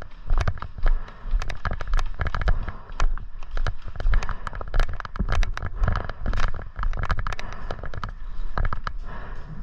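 Airsoft guns firing: a rapid, irregular run of sharp pops and clicks, several a second, thinning out near the end, over a low rumble of movement or wind on the microphone.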